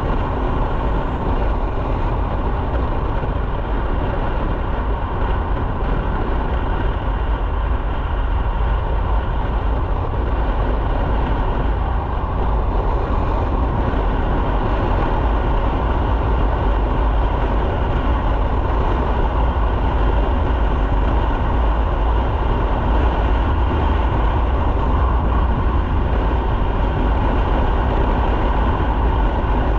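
A motorcycle being ridden: steady engine and road noise mixed with heavy wind rush on the microphone, getting slightly louder about halfway through.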